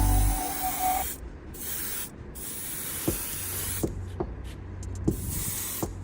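Paint being sprayed in short hissing bursts, about four of them, each lasting up to a second and a half, with a few sharp clicks between the later bursts.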